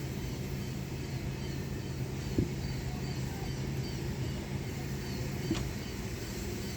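Sonny's car wash tunnel equipment running with a steady low hum, and two short knocks, one a couple of seconds in and one near the end.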